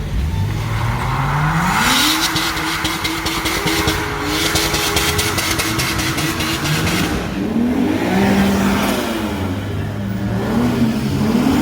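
Car engine revved hard from idle, held at high revs with a fast crackle for about five seconds, then dropped and blipped up and down several times.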